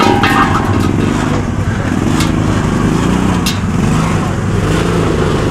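Side-by-side UTV engine revving up and down in waves as it climbs a rock obstacle. Two sharp knocks come about two and three and a half seconds in.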